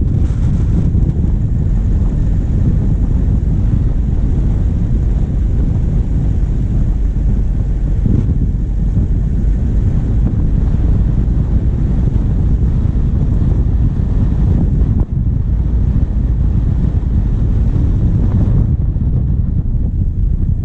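Steady wind buffeting on a bonnet-mounted GoPro's microphone over the low running of the vehicle's diesel engine while driving.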